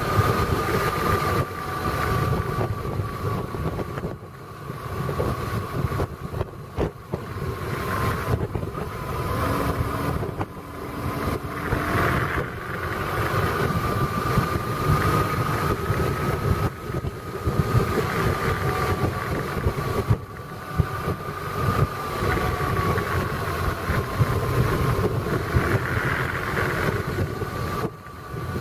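A vehicle driving along at speed: steady engine and road rumble with a continuous whine whose pitch drifts slowly up and down, and wind buffeting the microphone.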